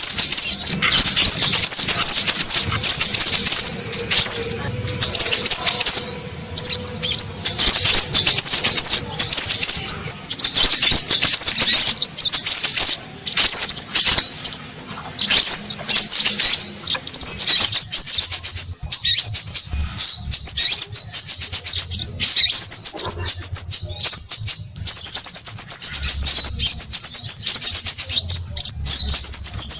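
Scarlet minivets calling, a loud, busy chatter of rapid high sweeping whistles that overlap with only brief gaps: a lure recording used by bird trappers to draw the species in.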